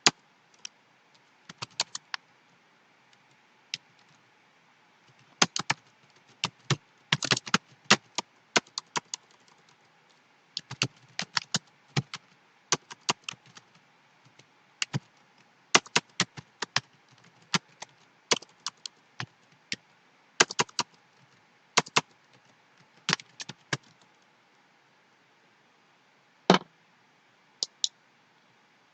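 Typing on a computer keyboard: irregular clusters of keystrokes with pauses between them, and one louder single key or click about 26 seconds in.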